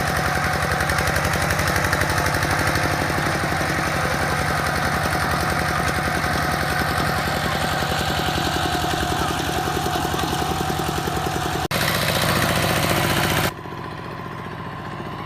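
Engine of a rice-harvesting machine running steadily with a fast, even pulse. The sound changes abruptly about twelve seconds in and drops to a quieter engine sound near the end.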